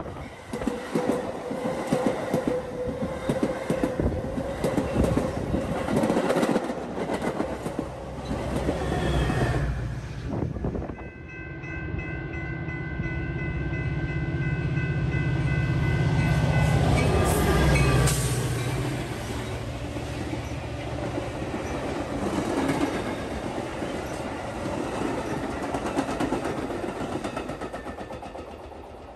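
A Metra express commuter train runs through the station close by at speed, with wheels clattering over the rail joints. After a cut, a second train approaches sounding its horn in a steady chord for about six seconds, then rumbles past.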